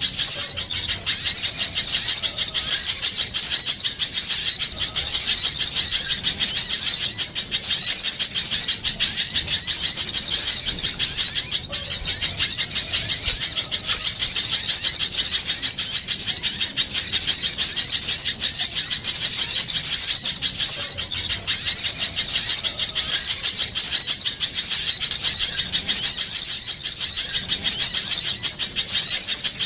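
Dense, noisy chorus of small birds chirping rapidly and without pause, high-pitched and continuous. It is a bird-trapping lure recording of agitated small birds, used to call other small birds in.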